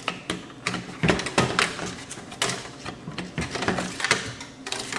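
Irregular clicks, knocks and clatter of the receiver's metal chassis and plastic front-panel parts being handled and pulled apart.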